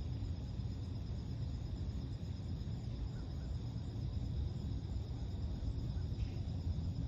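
Crickets trilling steadily in a high, finely pulsed chorus over a constant low rumble, with a faint short chirp about six seconds in.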